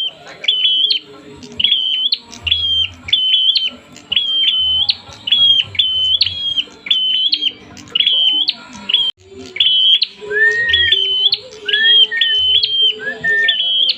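Prenjak (prinia) in agitated fighting song: a rapid string of short, sharp chirps, each ending in an upward flick, repeated about twice a second. A few lower rising whistled notes join in near the end.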